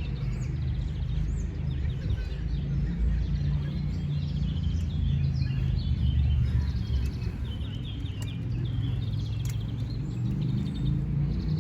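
Several songbirds chirping and trilling in quick, overlapping phrases over a steady low rumble.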